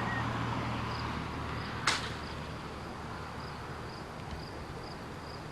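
Insects, likely crickets, chirping in a faint high even rhythm about twice a second, with one sharp click about two seconds in.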